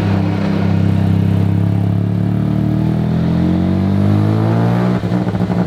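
Single-rotor rotary engine, built from a Mazda 13B, pulling the car along under throttle: its note climbs steadily for a few seconds, then drops suddenly and turns choppy near the end.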